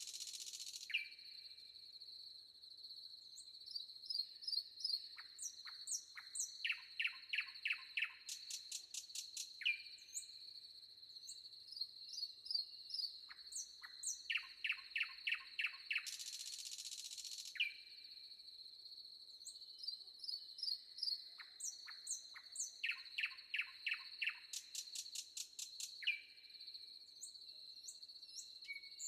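Birds singing in a forest: repeated runs of quick, sharp chirps and short whistled notes, over a steady high-pitched insect drone. Two brief hissing bursts stand out, one near the start and one about halfway through.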